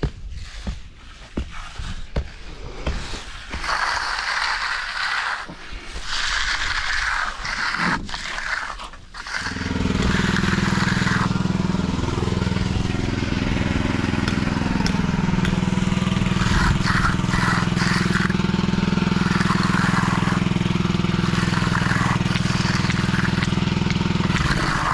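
Scraping and crunching of tools working wet concrete. About nine seconds in, a motor starts running steadily and louder, then cuts off just before the end.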